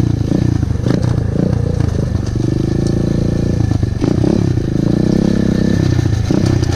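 Pit bike engine running hard, revving up and down as the throttle is worked, with some clatter.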